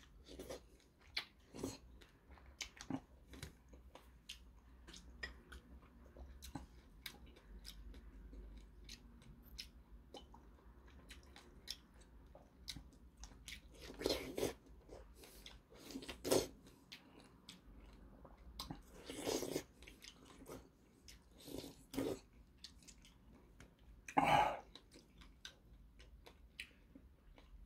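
Close mouth sounds of a man biting into and chewing fresh strawberries: soft wet smacks and small clicks throughout, with a few louder bites or smacks spread through.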